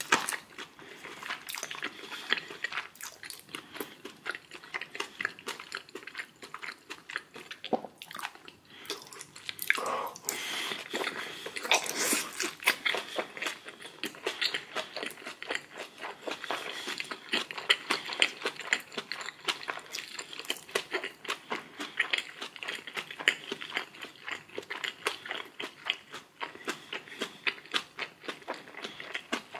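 A person chewing and crunching food close to the microphone: a continuous run of small, quick crunchy bites and chews, several a second.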